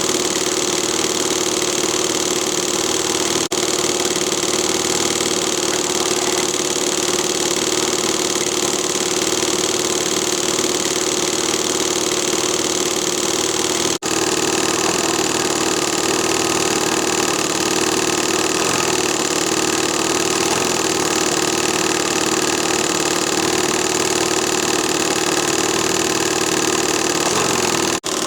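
Hand-made single-cylinder, double-acting slide-valve steam engine (13 mm bore, 15 mm stroke) running fast and steady under load, driving a 70 mm propeller, with a steady hiss.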